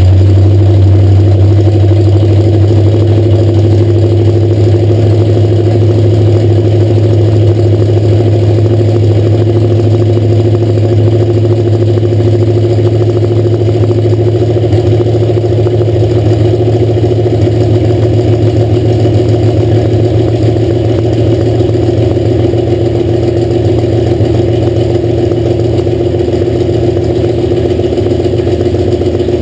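Freshly rebuilt Alfa Romeo Montreal V8 race engine running loud and steady on its first break-in run, holding an even speed without revving.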